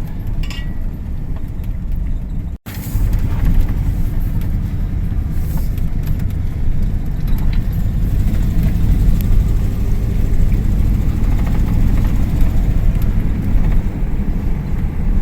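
Ford F-150 pickup driving, with steady engine and road rumble heard from inside the cab. The truck is being driven with a fuel-delivery problem that makes the engine run rough and reluctant under load. The sound cuts out for an instant about two and a half seconds in.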